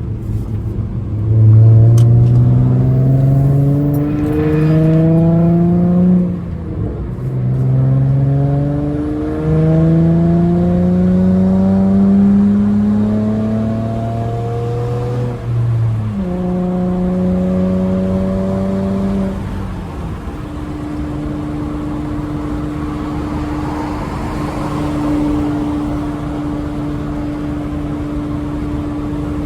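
Straight-piped V6 Honda Accord with a manual gearbox accelerating through the gears: the loud exhaust note climbs in pitch over several pulls, broken by upshifts about 6, 9 and 15 seconds in. From about 20 seconds in it settles into a steady drone at cruising speed.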